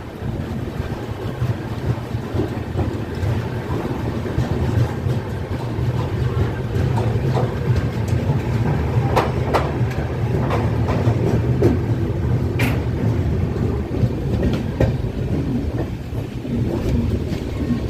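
Passenger train running along the track: a steady rumble of wheels on rails with a clickety-clack rhythm and scattered sharp clicks, the clearest about twelve seconds in.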